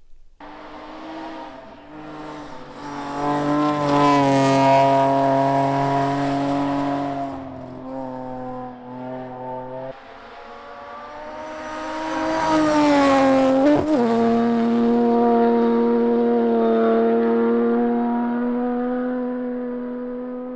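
Rally car engine running hard at high revs, with a sudden change about halfway through, then building again to a peak with a quick drop in pitch and holding a steady note.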